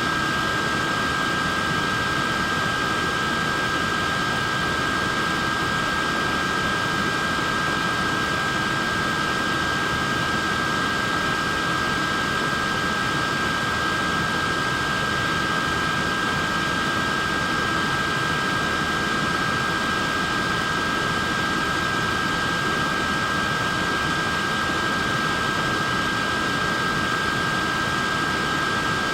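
Neck fan running steadily: an even rush of air with a steady high whine from its small motor and blades.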